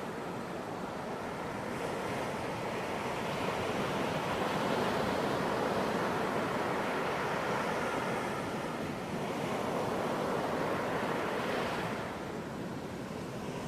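Ocean surf washing onto a beach: a continuous rushing that swells and eases as waves break and run back, easing off near the end.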